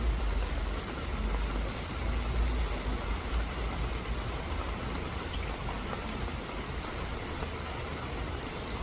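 Steady rain falling, an even hiss, with a low rumble underneath that swells and eases.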